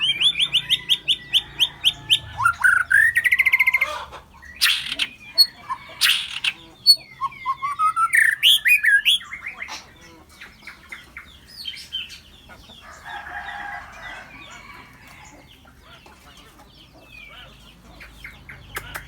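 Small birds chirping and singing: rapid runs of repeated notes and rising whistled calls with sharp clicks, busiest in the first half, sparser later, then picking up again near the end.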